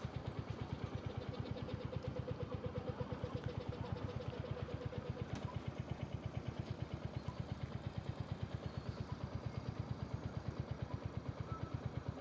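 Royal Enfield motorcycle engine idling, a steady, even, rapid pulse that neither rises nor falls in speed.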